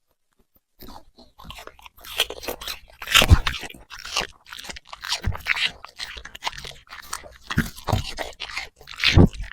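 A puppy chewing and crunching food with many quick, irregular crunchy bites, starting about a second in, with a couple of louder crunches along the way.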